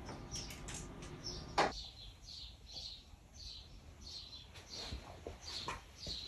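Small birds chirping over and over, with a single sharp knock about one and a half seconds in and a few fainter clicks.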